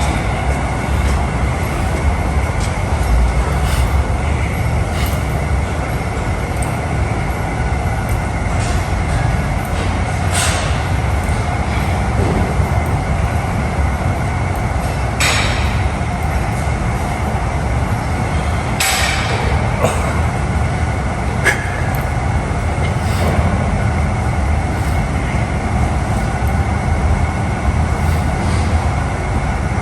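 Steady loud low rumble of background noise, with a few sharp metallic clanks of gym weights scattered through it, about ten, fifteen, nineteen and twenty-one seconds in.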